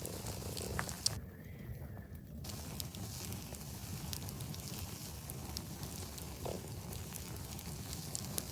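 Campfire burning: scattered small crackles and pops over a steady low rumble.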